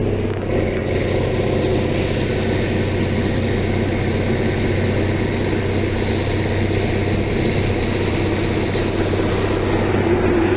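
Steady engine drone with a thin high whine that sets in about half a second in and fades out near the end.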